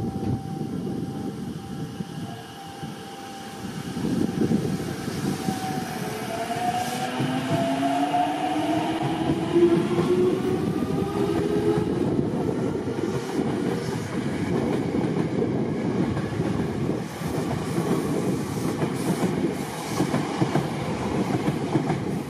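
Tokyo Metro 6000 series electric train pulling away and gathering speed. Its motor whine rises in pitch from about six to twelve seconds in, over the rumble of its wheels on the rails. Later the wheels clatter and click over rail joints and points as the train runs off.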